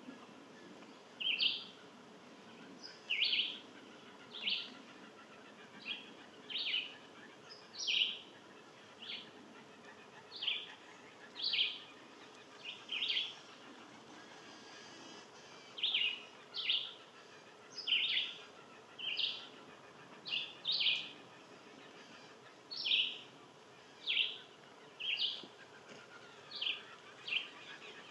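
A bird calling over and over: short, sharp call notes, roughly one a second, at a fairly even pace.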